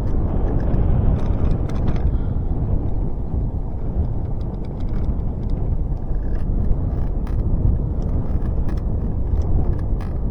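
Riding a bicycle: steady low rumble of wind on the microphone and tyres rolling over the path, with scattered light clicks and rattles from the bike.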